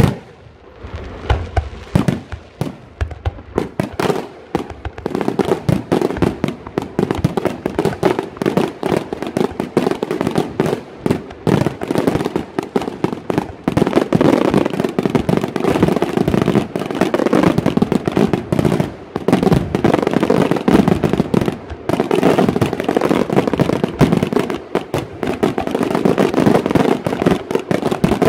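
Aerial firework shells bursting in rapid succession. Separate bangs in the first few seconds build into a dense, near-continuous barrage of overlapping bangs.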